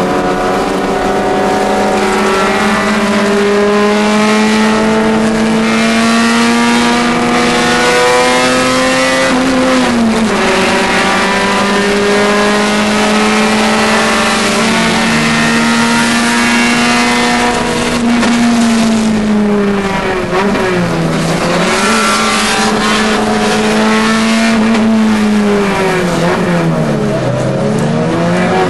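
Nissan Sentra SE-R's VVL four-cylinder engine, heard from inside the cabin, running hard on track. Its pitch climbs slowly at first, then dips briefly about a third of the way in and twice more in the second half.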